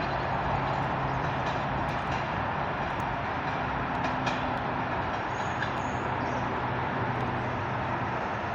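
Freight train hauled by a GB Railfreight Class 66 diesel locomotive passing on the main line. There is steady wheel-and-rail noise with a faint, even low hum.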